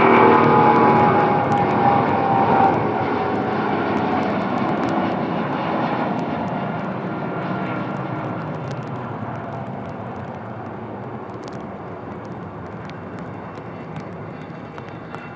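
A jet airliner passing close and moving away, its engine whine falling in pitch in the first few seconds. The loud engine noise then fades steadily.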